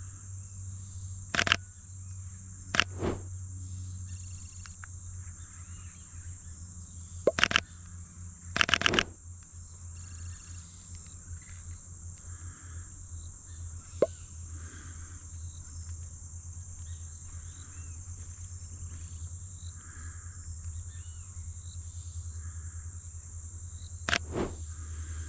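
Steady high-pitched drone of rainforest insects, with a low hum underneath. A few loud, sharp clicks break in, single or in quick clusters, about a second in, around three, seven and nine seconds in, and near the end.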